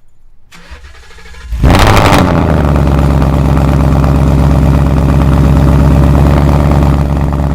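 2018 Mustang GT's 5.0 Coyote V8 cold-starting: a short crank, then the engine catches with a loud flare about a second and a half in and settles into a steady, high cold idle. The exhaust runs through long-tube headers and an H-pipe with the resonators deleted.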